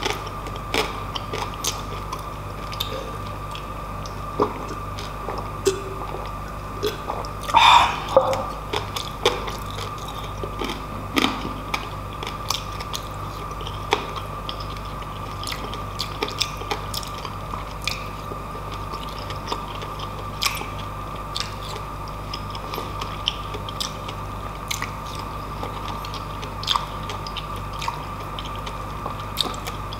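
A person chewing food close to the microphone, with many short wet clicks and smacks of the mouth over a faint steady hum; a longer, louder burst comes about eight seconds in.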